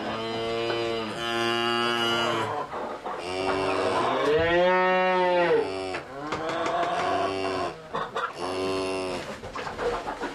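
Cattle mooing: a series of about six long moos, one near the middle rising and then falling in pitch.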